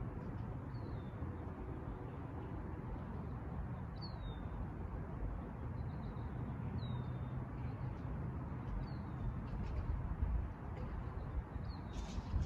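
A small bird repeats a short, high chirp that falls in pitch, five times at intervals of two to three seconds, over a steady low background rumble.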